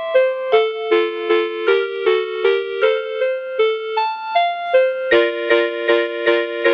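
Electronic lullaby tune from a VTech Soothe & Surprise Nature Lights baby soother: a simple piano-like melody of short notes at a steady pulse, about two or three a second, filling out into chords about five seconds in.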